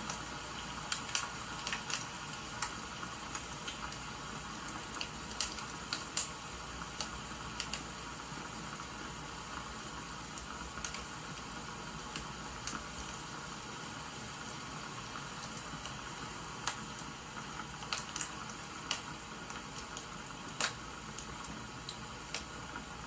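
Wood fire crackling, with irregular sharp pops scattered through it over a steady rain-like hiss.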